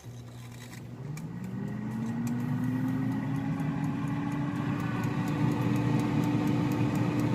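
Air fryer's fan motor spinning up after being switched on. Its hum rises in pitch over the first few seconds, then runs steady and grows louder, with faint clicks over it.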